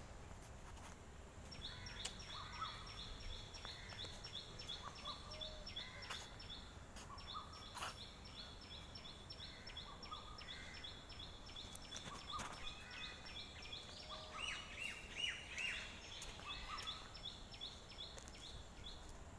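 Faint outdoor birdsong: one bird repeats a short, high note about five times a second in long runs, with other birds calling now and then and a few light clicks.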